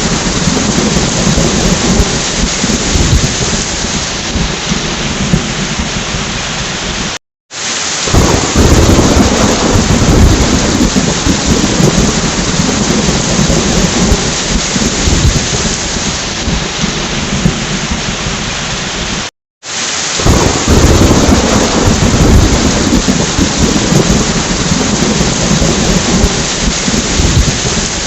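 Heavy rain with rolling thunder. The sound cuts out to silence for a moment twice, about seven and nineteen seconds in, and a deep thunder rumble swells after each break.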